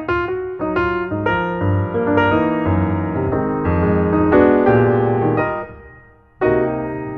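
Solo piano music playing a melody over sustained chords. It dies away about six seconds in, and a new phrase starts with a fresh chord half a second later.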